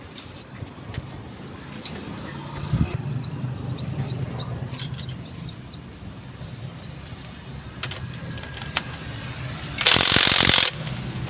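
A small bird chirping over and over in quick series of short rising chirps, thickest in the first half, over a steady low hum. Near the end comes a short, loud burst of hiss, lasting under a second.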